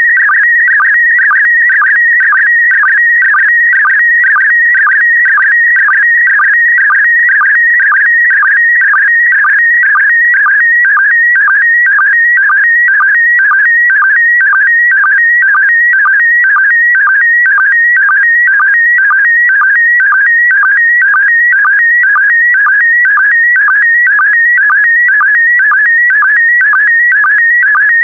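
PD120 slow-scan television (SSTV) image signal: a continuous warbling tone whose pitch shifts rapidly to carry the picture's brightness and colour. It is broken about twice a second by a short, lower sync pulse that marks the start of each new pair of image lines.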